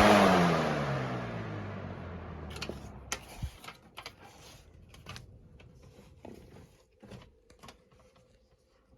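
Lasko Weather-Shield box fan with a 3733 blade set switched off and spinning down: its blade hum falls steadily in pitch and the rush of air fades over the first two seconds. Scattered faint clicks and ticks follow as it coasts toward a stop.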